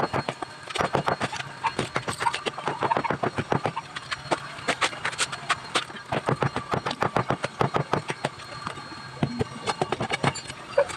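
Rapid, irregular hard clicking and knocking, several clicks a second, with a few sparser stretches.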